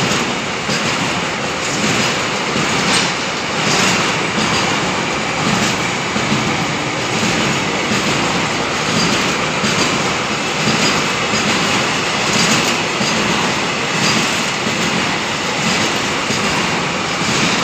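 A fast freight train of covered car-carrier wagons rolling past close by: steel wheels on the rails make a steady loud rumble, with a regular clatter about once a second as the wheelsets cross rail joints.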